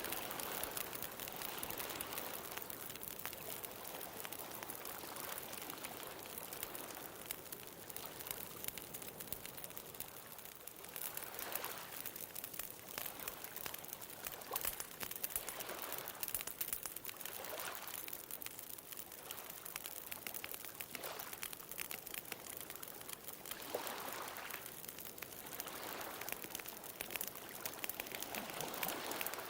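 Wood bonfire crackling with many small sharp pops, over ocean waves that swell and wash in several times.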